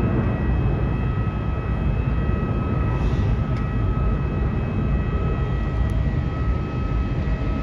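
Qantas Boeing 737's jet engines at takeoff power: a steady heavy rumble with several steady whining tones over it, easing slightly near the end.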